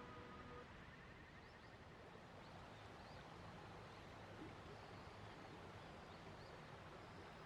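Faint outdoor ambience: a soft steady rush with a few faint, high bird chirps scattered through it.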